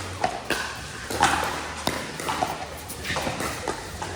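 Pickleball paddles popping against a plastic ball and the ball bouncing: sharp pops at irregular intervals, with voices in the background.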